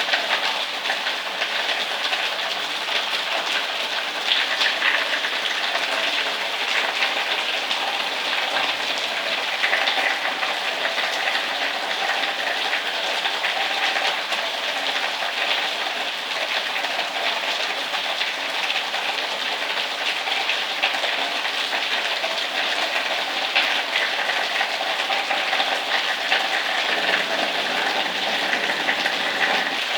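Heavy rain falling steadily: a dense, even hiss dotted with many small drop ticks.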